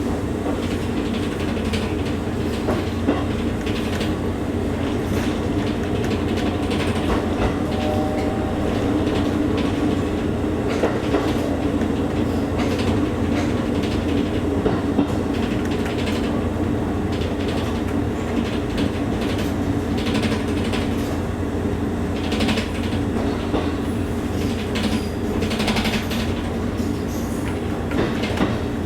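Interior of an electric train running along the Kakogawa Line: a steady low running drone, with wheels clicking over rail joints now and then.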